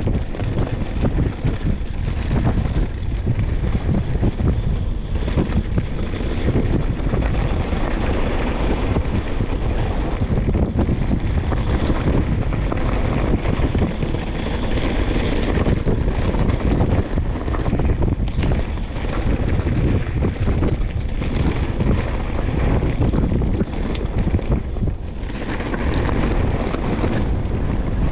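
Wind buffeting the microphone on a mountain bike riding down a singletrack, with the steady rumble of tyres on dirt and stones and frequent short knocks and rattles of the bike over roots and rocks.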